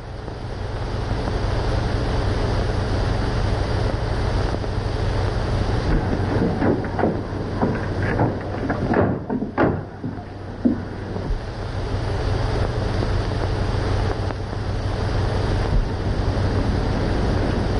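Car engine running under heavy hiss and low hum from an old film soundtrack, with a run of knocks and thumps about six to ten seconds in.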